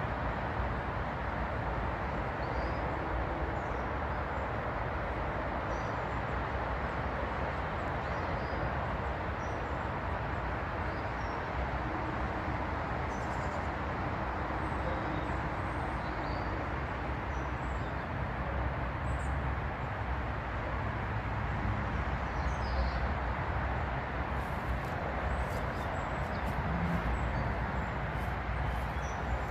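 Steady low rumbling background noise, with faint scattered bird chirps over it.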